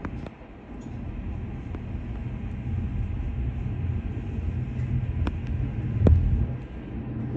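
Shinano Railway SR1 series electric train running between stations: a steady low rumble, with a couple of sharp clicks about five and six seconds in.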